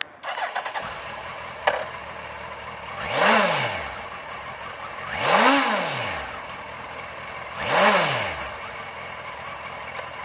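2005 Suzuki Hayabusa's 1299 cc fuel-injected inline-four engine starting up, then settling to idle while the throttle is blipped three times, the revs rising and falling a few seconds apart.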